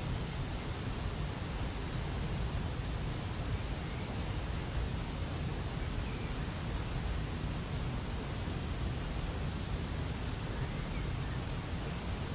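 Waterfall rushing steadily. A bird repeats a short high chirp a few times a second in runs, stopping and starting again several times.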